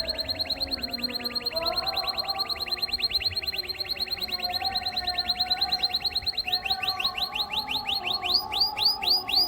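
Domestic canary singing one long, rapid trill of identical high notes. Near the end the trill slows into wider, swooping notes that rise and fall.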